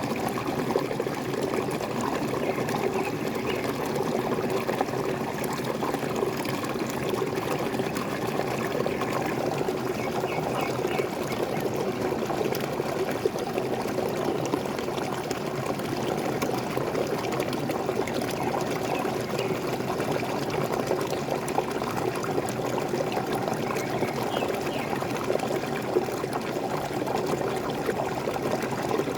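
Water from a small waterfall pouring and splashing steadily, a dense, even rush that never lets up.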